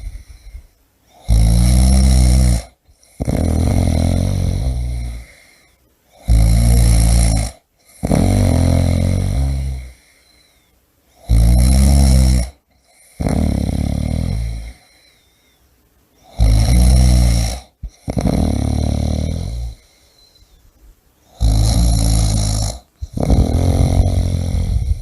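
A person snoring in a slow, regular rhythm: five breaths, each a short loud snore followed by a longer one that fades away, with a brief quiet gap before the next.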